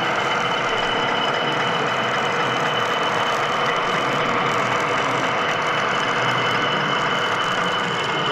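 Model train running on an exhibition layout: a steady mechanical running sound with a thin high whine held throughout.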